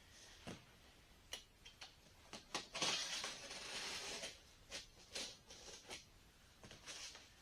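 Packaging being handled during an unboxing: scattered light clicks and taps, with a burst of rustling about three seconds in that lasts over a second.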